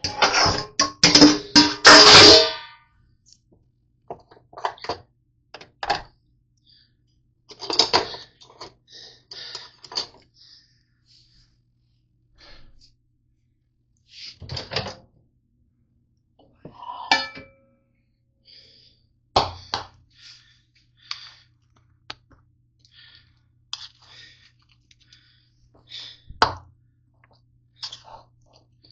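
Kitchen handling sounds: a loud burst of clattering in the first two and a half seconds, then scattered thunks and clinks of a bowl and utensils, over a faint steady low hum.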